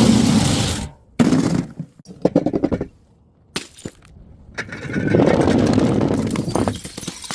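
Glass bottles breaking: a loud smash right at the start and another about a second in, a scatter of small clinks from falling pieces, then a longer stretch of crashing and crunching from about five seconds in.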